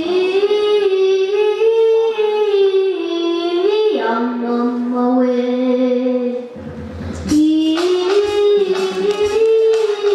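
A female voice singing a slow melody in long, held notes. There are two phrases, with a short break about six and a half seconds in.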